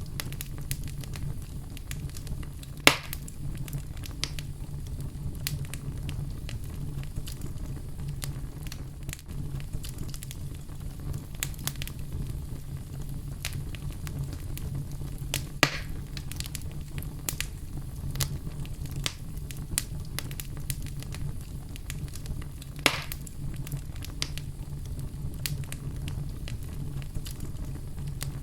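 Wood fire burning in a fireplace: a steady low rumble of flames under constant small crackles, with three louder pops spread through.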